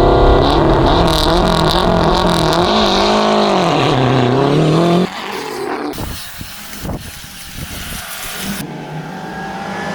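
Lancia Delta rally car engine running loud, its pitch rising and falling as the revs change. About halfway in it cuts off abruptly to a much quieter stretch with a few sharp knocks.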